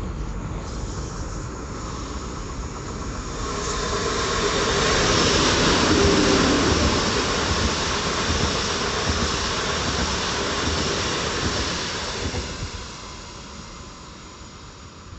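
Train passing through the station: a rushing rail noise that builds from about four seconds in, is loudest a couple of seconds later, and fades away after about twelve seconds.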